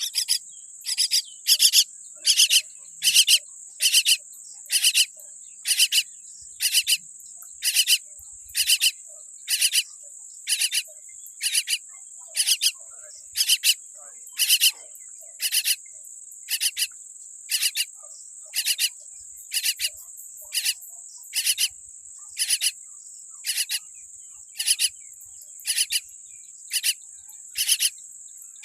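Myna chick giving short, harsh, raspy calls, repeated evenly about once a second, as a nestling begging for food does. A steady high-pitched trill runs underneath.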